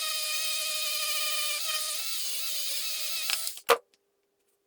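Small handheld rotary tool polishing the stripped diecast metal body, running with a steady high whine that wavers slightly. It stops about three and a half seconds in, a sharp click follows, then silence.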